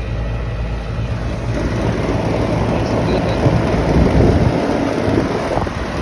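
Outdoor air-conditioning condenser unit running: a steady low compressor and fan-motor hum, giving way about two seconds in to a louder rushing noise of air and handling close to the microphone.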